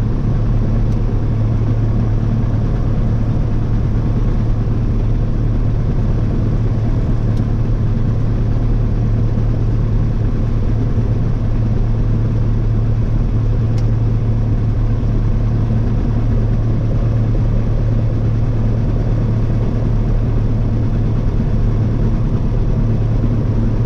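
Small airplane's piston engine running at a steady speed: a constant low drone that holds one pitch throughout.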